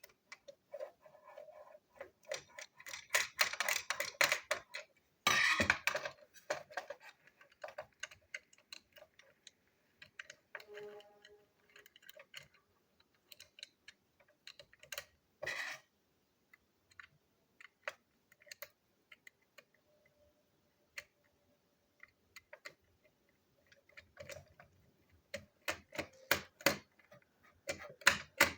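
Plastic toy train pieces being handled, pulled apart and clipped together: scattered light clicks and rattles, with busier clattering a few seconds in and again near the end.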